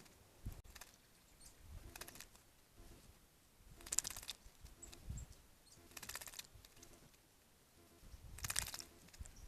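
Small songbird bathing in a bird bath, fluttering its wings in the water in several short splashing bouts, the loudest about four seconds in.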